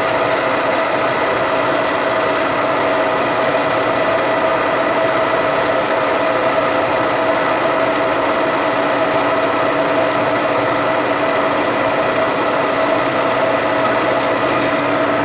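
Metalworking machine tool running steadily through a cut on a steel part, with a steady whine from its drive over the cutting noise.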